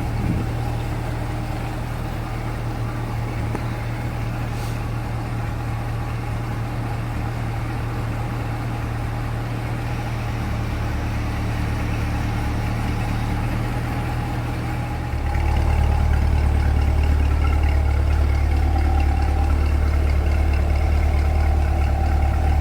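C8 Corvette's V8 idling steadily, with a low drone that steps up louder about two-thirds of the way through.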